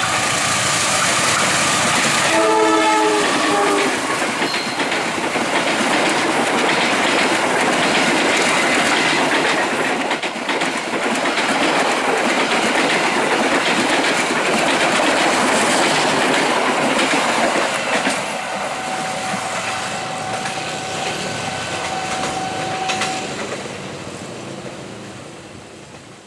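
A train passing close by, its wheels clattering over the rail joints, with a short horn blast about two to three seconds in. The noise falls away over the last few seconds as the train moves off.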